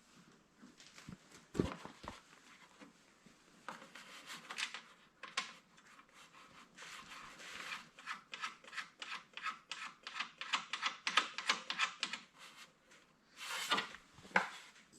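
Hand-worked scraping or rubbing strokes, quick and rhythmic at about four a second through the middle of the stretch, among scattered handling knocks and clicks.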